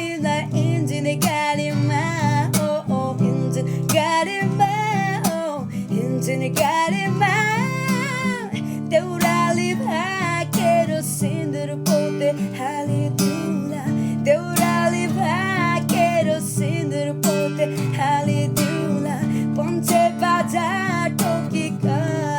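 A song: a voice singing a wavering melody over a strummed acoustic guitar.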